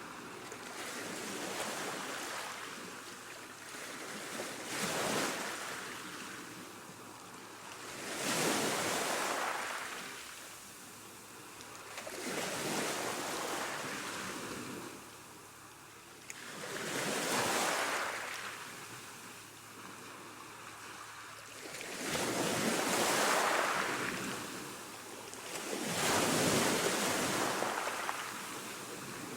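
Ocean surf: waves breaking and washing in, the rush of water swelling and fading about every three to five seconds.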